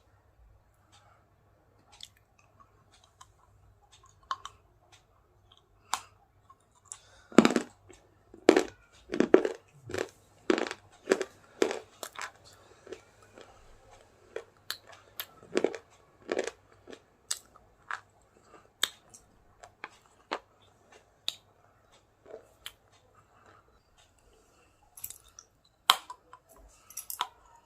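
A person eating crunchy food close to the microphone, heard as crunches and chewing. A run of loud crunches comes about a third of the way in, followed by scattered quieter crunches and a few sharp ones near the end.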